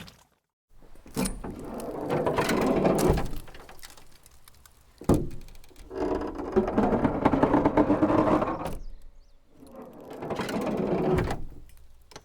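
A mechanical sound effect rising and fading in three long swells of a few seconds each, with a sharp knock about five seconds in.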